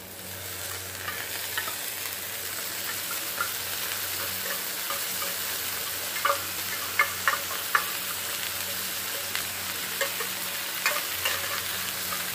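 Canned tuna frying in hot oil with sautéed garlic and onion in a frying pan. A steady sizzle grows louder in the first second as the tuna goes in, and a wooden spatula taps and scrapes against the pan now and then.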